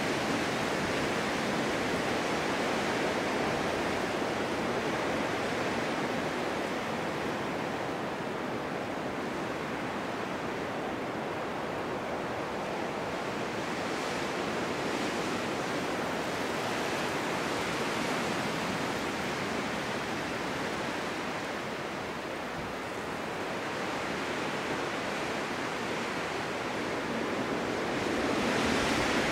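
Snowstorm wind blowing as a continuous rushing noise, easing a little past the middle and swelling again near the end.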